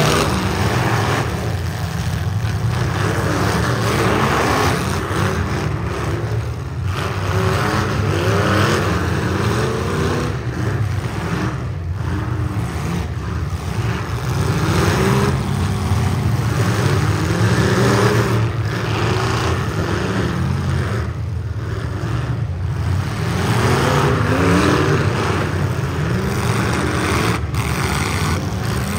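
Engines of several heavy-weld full-size demolition derby cars revving up and down at once, loud and continuous, with many rising and falling pitches overlapping.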